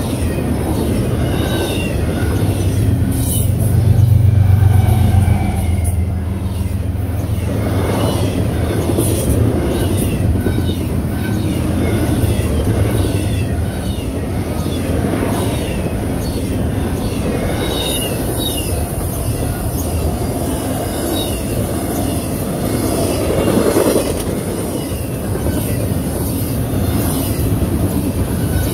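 Double-stack intermodal freight cars rolling past at close range: a steady rumble of steel wheels on the rails, loudest about four seconds in, with light high wheel squeals now and then.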